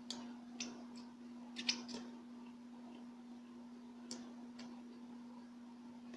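Close-miked eating sounds: sharp mouth clicks and lip smacks from chewing, loudest in a quick cluster about a second and a half in and again about four seconds in, over a steady low hum.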